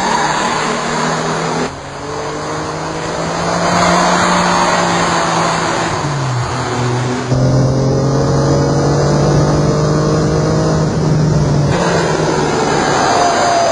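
Sports car engine running hard at speed on a race track, its note rising under acceleration and dropping once a little past halfway. Abrupt edit cuts change the sound several times.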